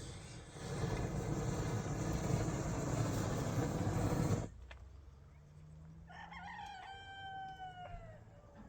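A loud, steady rushing noise stops abruptly about four and a half seconds in. A rooster then crows once, the call held and falling off at the end.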